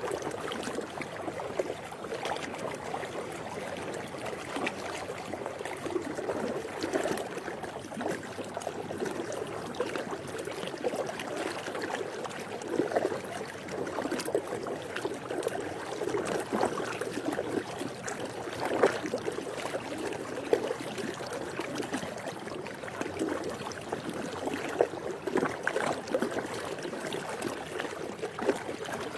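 Swimming-pool water lapping and sloshing: a steady wash of small, irregular splashes.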